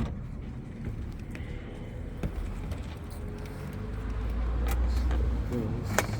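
A few sharp clicks and taps from work on a pickup's dashboard speaker, the loudest near the end, over a steady low rumble that swells for a second or so about four seconds in.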